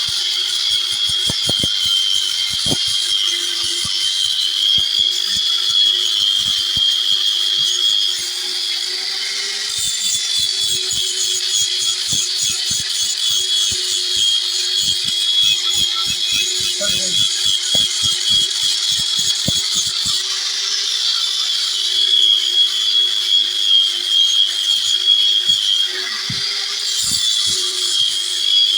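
Electric power tool running steadily with a high whine, working on metal, with faint short knocks throughout.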